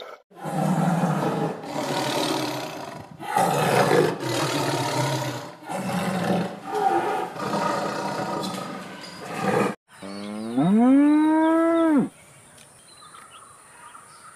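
A tiger growling in a run of rough, noisy calls, then a cow giving one long moo that rises in pitch, holds, and cuts off sharply.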